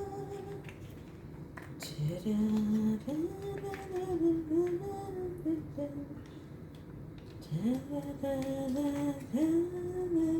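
A woman humming a tune wordlessly, in phrases of long held notes that glide up and down, with a few faint clicks.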